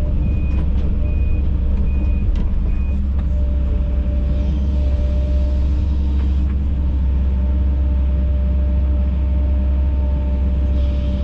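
Heavy equipment diesel engine running steadily, with a backup alarm beeping about once a second for the first three seconds as the machine reverses.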